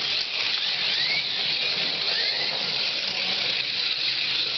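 Carrera Go 1/43 scale slot cars with small electric motors whining steadily as they race round the track. The pitch rises briefly a couple of times as the throttle is squeezed.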